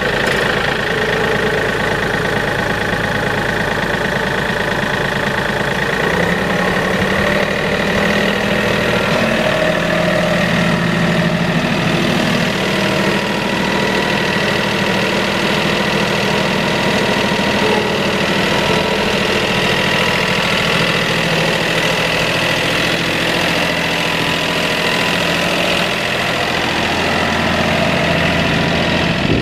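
Kioti tractor-loader's diesel engine idling steadily just after starting, its note shifting slightly about six or seven seconds in.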